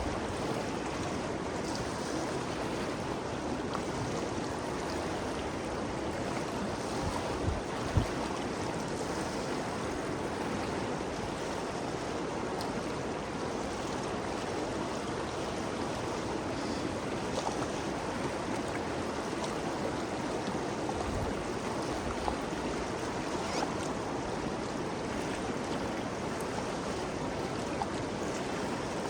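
The Ganges River's rushing, flowing water: a steady, unbroken wash of water noise. A couple of brief low thumps stand out, the clearest about eight seconds in.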